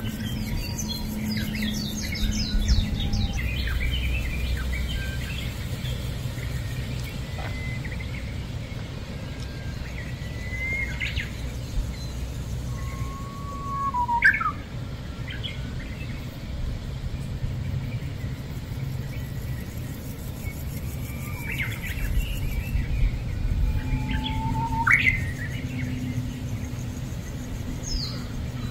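Small birds chirping and whistling on and off, with a quick run of chirps near the start and louder single calls about halfway through and near the end, over a steady low rumble.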